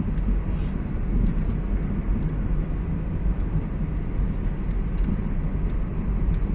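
Car driving on an open road, heard from inside the cabin: a steady low rumble of engine and tyres on tarmac.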